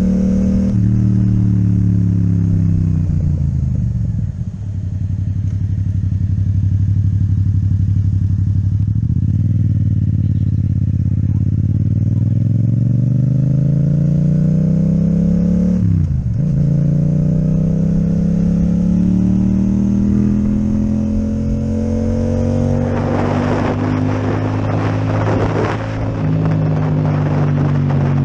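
Yamaha MT-07's parallel-twin engine with an Akrapovic exhaust, heard while riding: it slows in the first few seconds, then pulls up through the gears, with its pitch dropping at each shift about four and sixteen seconds in. A rougher, rattling noise sits over the engine for a few seconds near the end.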